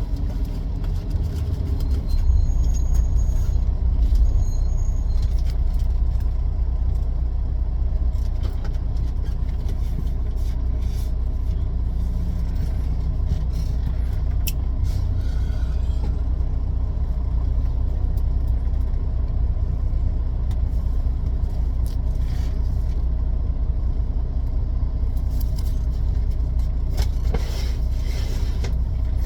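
Semi truck running, a steady low rumble, with a few faint clicks and ticks over it.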